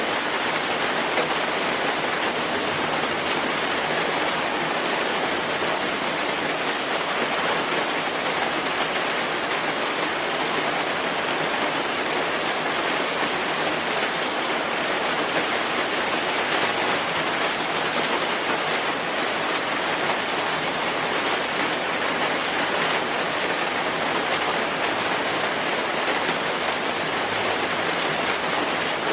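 Steady rainfall, a dense even hiss of many drops falling on a surface.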